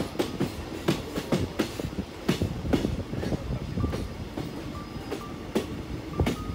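Passenger train running along the track, heard from the side of a moving coach: a steady rumble with wheels clacking over rail joints in an uneven run of sharp clicks and knocks.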